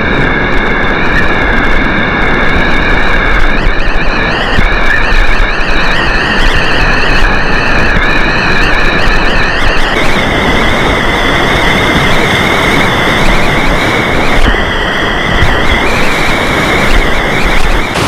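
Loud, steady rushing of whitewater rapids close to the camera, with a thin high whine on top that shifts in pitch a few times.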